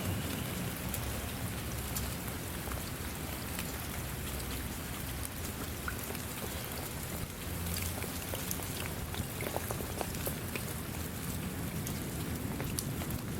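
Steady rain falling, with many separate drops ticking sharply through an even hiss and a low rumble underneath.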